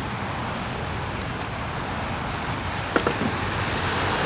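Steady hiss of rain and wet-road traffic, with one sharp knock about three seconds in; the hiss swells near the end as a car approaches on the wet road.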